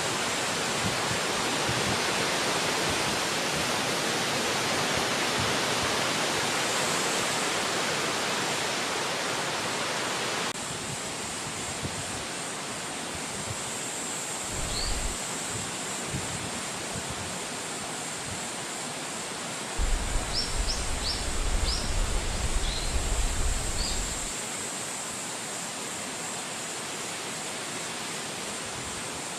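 Wind rushing steadily through forest trees. It drops a step about a third of the way in. Two-thirds in there are several seconds of low rumbling, and a few short, high bird chirps come near the middle and later.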